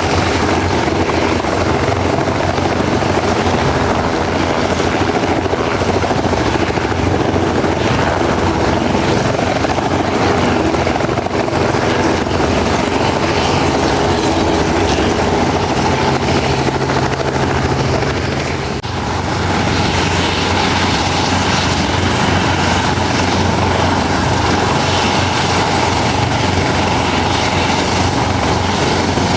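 Helicopter running close by: steady, loud rotor and turbine noise, with a brief dip and an abrupt change in tone about two-thirds of the way through.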